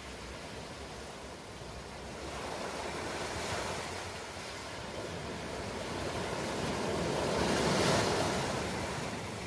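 Ocean waves washing in: a steady rush of surf that swells and ebbs, the biggest surge coming a little before the end.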